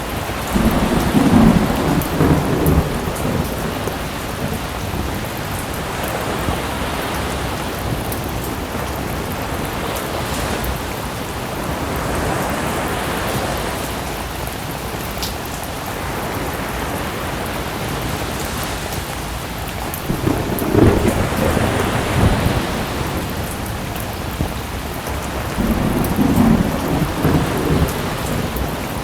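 Steady rain with thunder rumbling three times: near the start, about two-thirds through, and near the end. Sea waves swell and wash in slowly beneath the rain.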